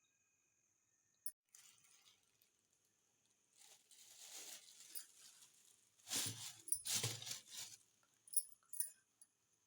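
Rustling and handling noises of items being moved about, growing louder around the middle, with a few sharp clicks near the end.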